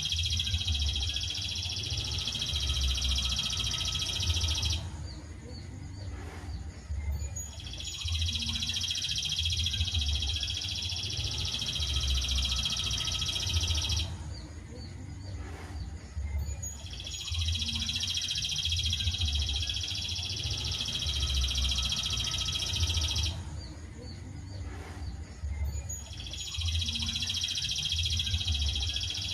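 A songbird masteran recording: a long, high, continuous trill lasting about six seconds, broken by pauses of about three seconds, and repeating at very even spacing as a training loop. A low rumble runs underneath.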